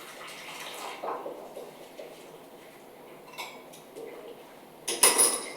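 Kitchenware clinking: a few light knocks, then a loud clattering strike with a ringing high tone near the end.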